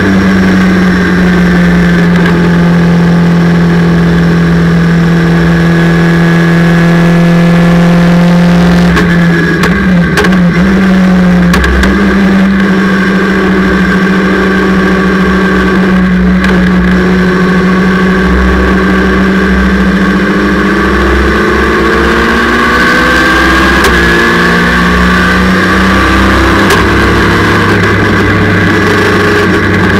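A 2-litre sports sedan race car's engine heard from inside the cockpit, running at fairly steady revs. The note breaks up about ten seconds in, and the revs rise slowly a little past twenty seconds.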